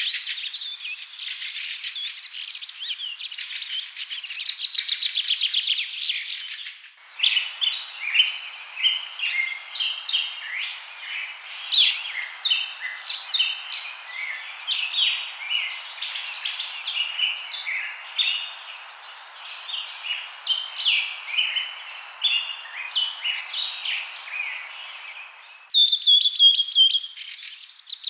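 Songbirds chirping and singing: a dense run of fast trills at first, then a long stretch of short, varied chirps over a steady background hiss, then a quick high trill. The recording changes abruptly twice.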